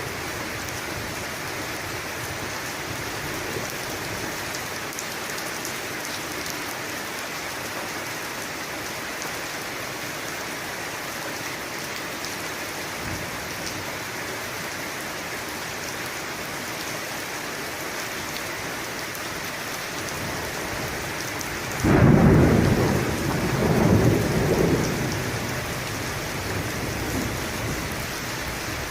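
Steady heavy rain falling, with a sudden thunderclap about three-quarters of the way through that rumbles for a few seconds before fading back into the rain.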